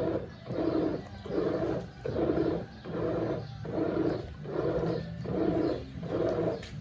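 Brastemp Eggo 1 kg mini washing machine agitating a wash load, its motor and pulsator churning in a steady rhythmic pulse of a little more than one stroke a second over a low hum.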